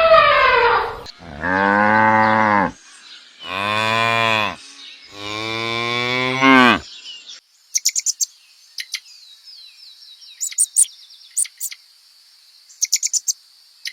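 A cow mooing three times, long low calls each lasting a second or more. After them come quick bursts of high chirping from small birds.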